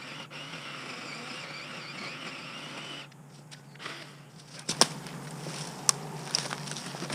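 A faint steady whir for about three seconds, then dry brush and twigs snapping and crackling in sharp separate cracks.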